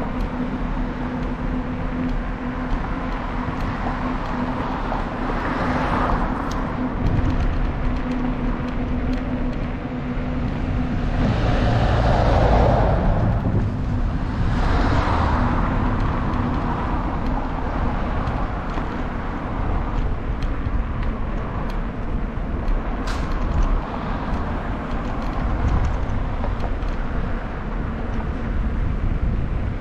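Wind and road noise on a bicycle-mounted camera microphone while riding along a road, with motor vehicles passing: one about six seconds in and a couple more around the middle. A steady low hum runs through the first third and then stops.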